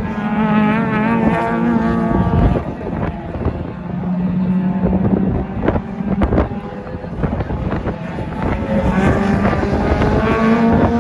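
Honda four-cylinder engine revving high, its pitch wavering, then climbing steadily in the last few seconds as it pulls through the revs, with wind buffeting the microphone and a few sharp knocks around the middle.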